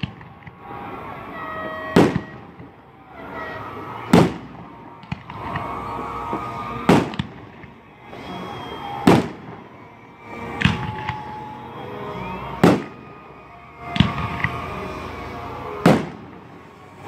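Aerial firework shells bursting overhead: eight sharp booms about two seconds apart, each dying away quickly.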